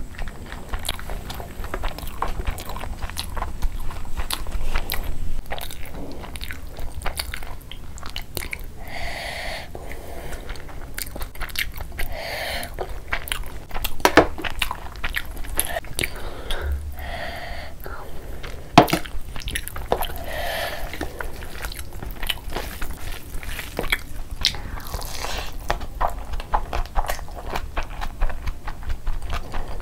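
Close-miked chewing of rice, with wet mouth smacks and clicks and the squelch of a hand working through soft food. Two sharper knocks stand out, about 14 s and 19 s in.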